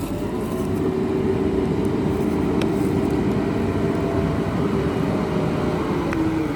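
JCB 3DX backhoe loader's diesel engine running under load with a steady whine. It swells over the first second, and the pitch drops near the end as the engine eases off.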